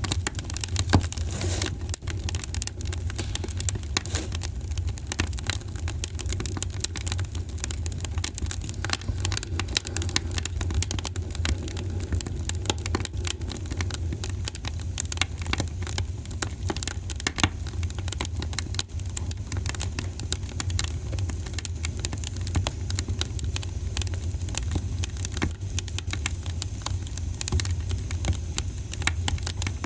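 Wood fire in a fireplace burning steadily, with dense, irregular crackles and pops over a low, steady rumble of flame.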